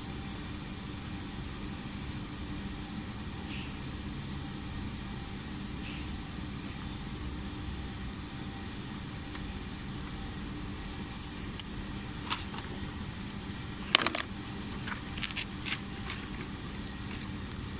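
Steady mechanical hum with hiss, joined in the second half by a few light clicks and one sharp knock about fourteen seconds in.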